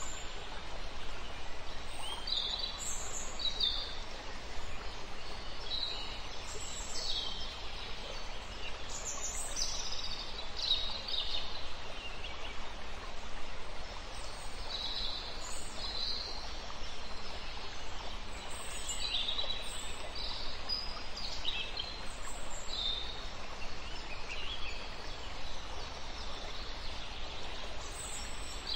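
Wild birds chirping and calling: short high notes and quick falling whistles every second or two, over a steady hiss of outdoor ambience.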